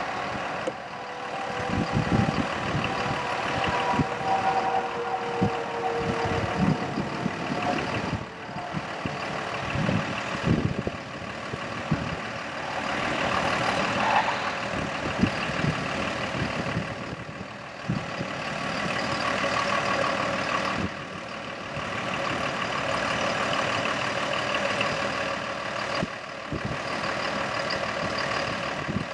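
Freightliner M2 bucket truck's diesel engine running steadily, with a few knocks and clunks. A faint tone slowly falls in pitch over the first several seconds.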